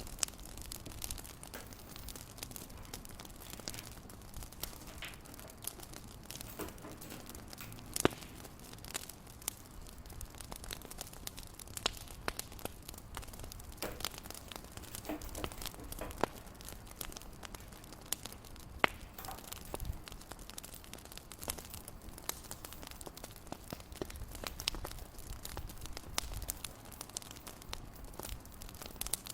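Fireplace crackling: irregular sharp pops and snaps over a low steady hiss, with a few louder pops.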